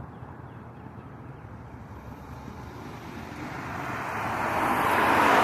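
Road traffic: a passing vehicle's tyre and road noise growing steadily louder over the last two seconds, a smooth rushing haze rather than a clear engine note.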